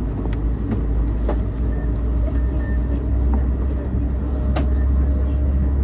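Steady low rumble of a moving road vehicle heard from inside the cabin, with a few light clicks and rattles.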